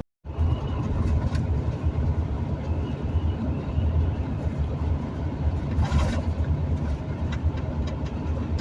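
Steady low rumble of a vehicle driving at highway speed, heard from inside the cabin: engine and road noise, after a brief dropout at the very start.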